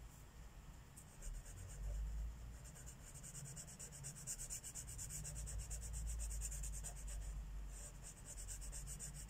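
Marker tip scratching on paper in quick back-and-forth strokes, several a second, as an area of a colouring-book page is coloured in.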